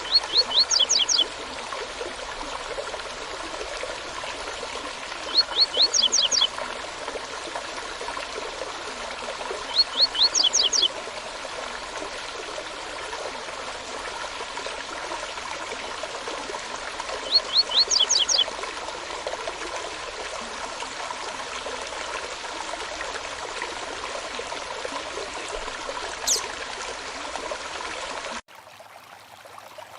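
Running stream with a songbird repeatedly singing a short, loud phrase of quick high notes, four times, and a single sharp rising call near the end. The stream sound drops abruptly just before the end, like an edit.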